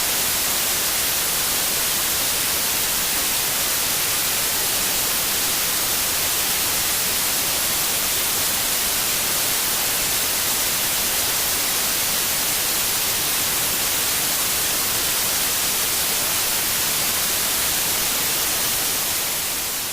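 Steady, even hiss of television static (white noise), strongest in the high range, unchanging throughout.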